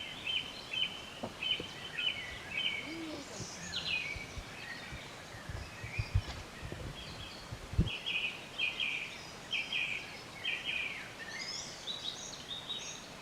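Birds calling in woodland, with runs of short repeated high notes that come and go over a faint outdoor background. A few low thuds sound about halfway through.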